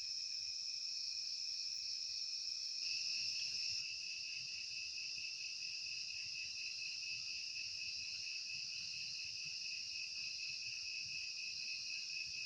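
Steady chorus of insects at dusk: a continuous shrill trilling at two high pitches, with no break.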